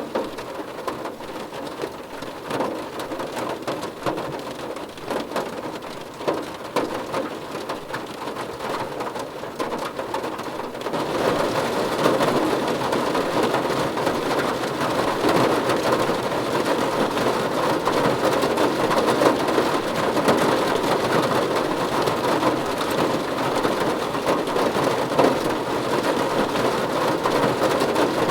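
Rain falling on a car's roof and windows, heard from inside the cabin. There are scattered separate drop taps at first, then it becomes heavier and denser about eleven seconds in.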